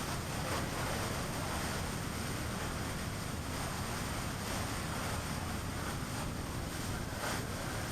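A car driving at road speed: steady tyre noise on the pavement mixed with rushing wind.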